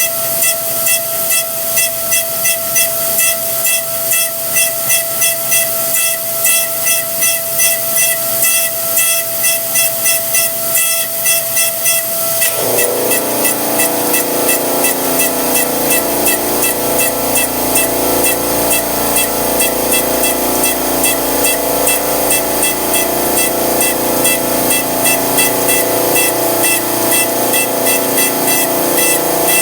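Versamill 5X200 dental milling machine wet-milling an e.max glass-ceramic block: a steady hiss of spindle and coolant spray pulsing evenly, with a steady whine that changes to a lower, wavering tone about twelve seconds in.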